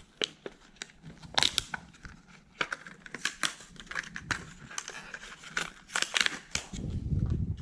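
A jerkbait's plastic retail packaging being opened and handled: irregular crinkling, crackling and sharp clicks, with a duller rustle shortly before the end.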